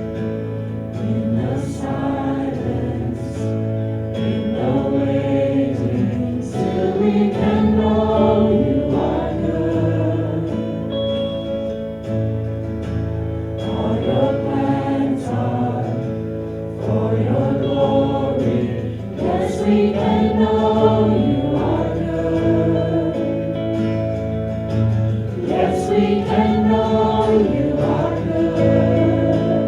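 A group of voices singing a contemporary worship song together, over steady instrumental accompaniment.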